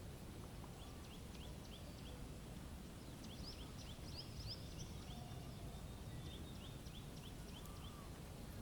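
Small birds calling in quick series of short high chirps, several bouts of them, over a steady low rumble of storm wind.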